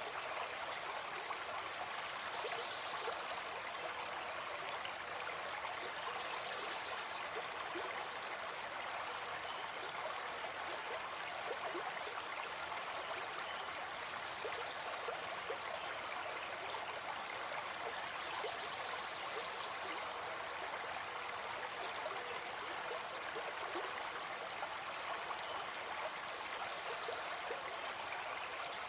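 Gentle forest stream flowing steadily over stones, a continuous rushing and babbling of water.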